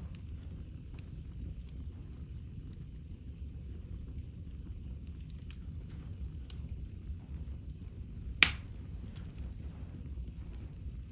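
Wood fire in a fireplace crackling: scattered small crackles over a low, steady rumble, with one loud, sharp pop about eight and a half seconds in.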